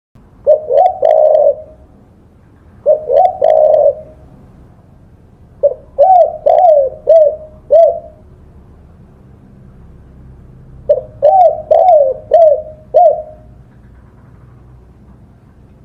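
Spotted dove (tekukur) cooing in repeated phrases of low, rolling coos: two short phrases in the first few seconds, then two longer runs of about five coos each with pauses between.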